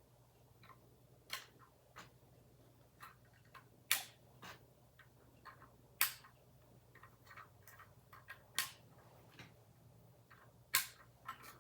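Plastic building bricks being handled and pressed together: irregular sharp clicks and taps, a few louder snaps among fainter ones.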